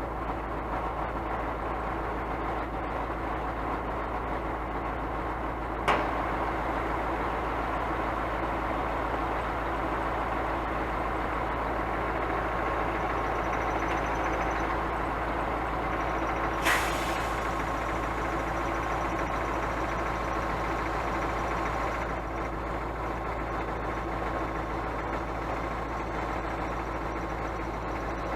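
Scania truck's diesel engine running steadily, with two short hisses about six seconds in and again just past the middle, the second one stronger.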